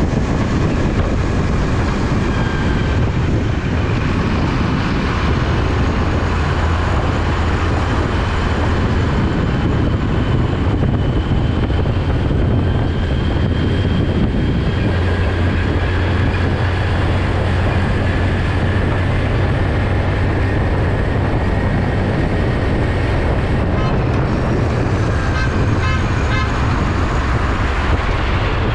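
Road traffic with heavy truck engines running, a steady low drone under tyre noise, with faint high whines over it and a short run of light ticks near the end.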